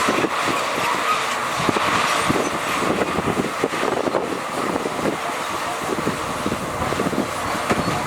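Heavy earthmoving machinery running: a steady engine noise with many short, irregular knocks through it.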